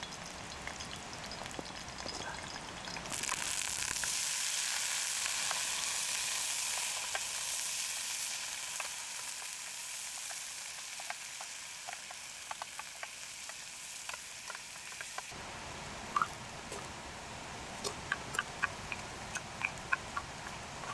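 Food sizzling in a hot pan: a steady frying hiss with scattered small pops. It gets louder about three seconds in and drops abruptly at about fifteen seconds, leaving a quieter sizzle with sharper spitting pops.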